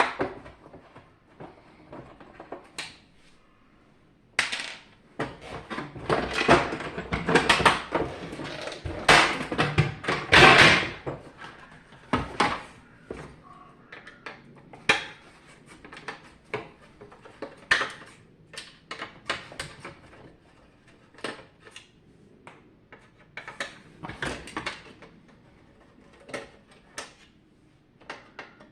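Parts of a dehumidifier being handled during disassembly: a run of separate clicks and knocks, with a busier, louder stretch of rattling and scraping in the first half.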